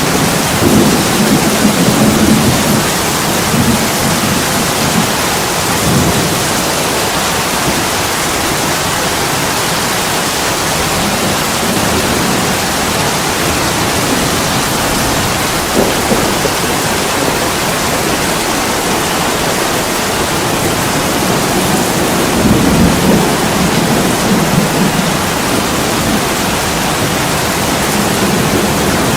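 Heavy rain pouring steadily on an attic window, a constant dense hiss, with low rumbling swells in the first few seconds and again about two-thirds of the way through.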